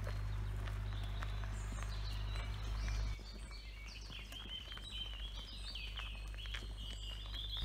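Songbirds singing in woodland: short chirping notes that become a quick run of repeated notes in the second half. A steady low hum underneath stops suddenly about three seconds in.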